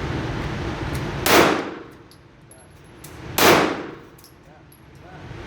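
Two shots from a Sig Sauer P320 X5 pistol, about two seconds apart, each with a short ringing tail. The steady background hiss drops away after each shot.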